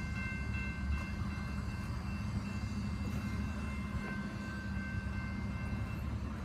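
Freight train of double-stacked containers rolling past, a steady low rumble with a thin high tone on top that drops in and out.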